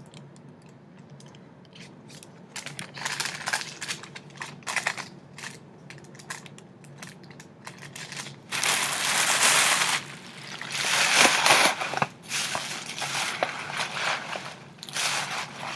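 Paper and gift wrapping being handled: scattered rustles and crinkles, with two longer, louder stretches of crinkling about halfway through.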